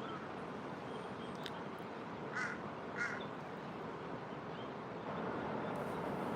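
A bird gives two short, harsh calls about two and a half and three seconds in, over a steady outdoor hiss that gets a little louder near the end.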